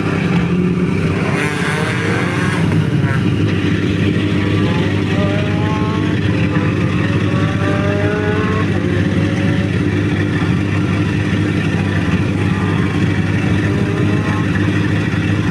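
Rally car engine running steadily, with a higher engine note rising in pitch again and again in the first half.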